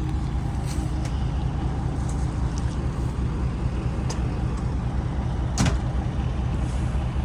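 A truck engine idling with a steady low rumble, with one sharp click about five and a half seconds in.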